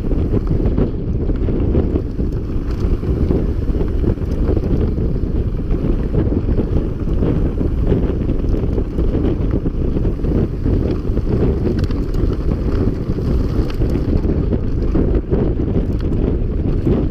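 Heavy wind buffeting on a mountain bike rider's camera microphone while riding at speed, a dense steady rumble with faint ticks and rattles from the bike over the trail.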